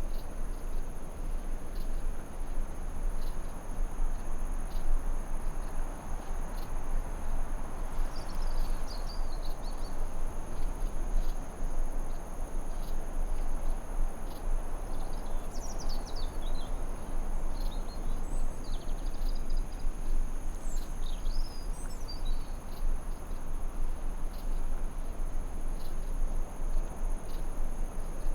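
Forest ambience: a steady high insect chorus over a constant rushing noise bed, with scattered bird chirps from about 8 to 22 seconds in.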